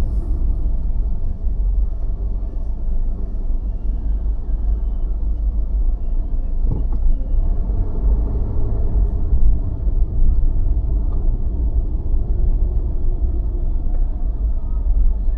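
A car driving through city streets: a steady, heavy low rumble of engine and road noise, with a single short knock about seven seconds in.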